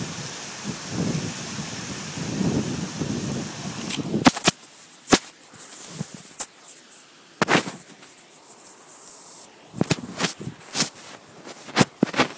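Rain falling steadily with low rumbling thunder. About four seconds in this cuts off, and a series of sharp clicks and knocks follows as the phone is handled and covered.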